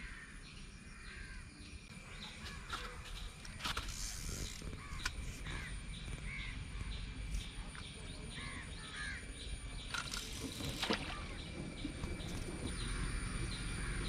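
Birds calling around the riverbank, short chirps and calls scattered throughout, with a few sharp clicks about four seconds in and near eleven seconds.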